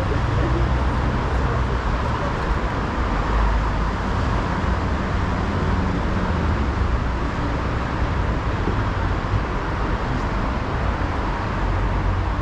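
Steady city street traffic noise: a continuous wash of cars and other vehicles running along a busy road, with no single passing vehicle standing out.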